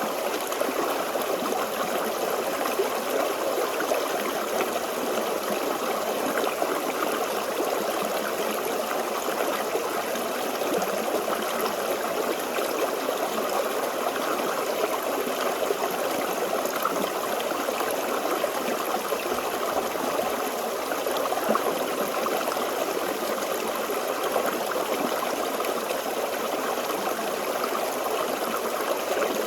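Forest stream flowing steadily over rocks, a continuous babble of running water with no pauses.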